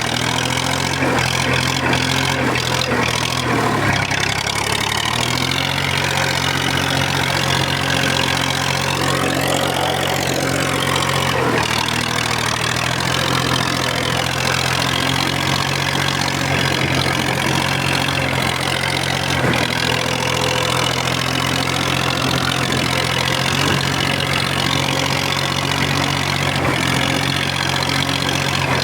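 Massey Ferguson 35X tractor engine running at a steady speed, its pitch stepping up or down a few times as the engine speed changes.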